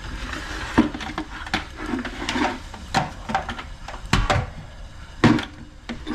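Copper pipe and plumbing tools being handled: a handful of irregular sharp knocks and clicks over low rustling, as the copper is cleaned ready for fitting.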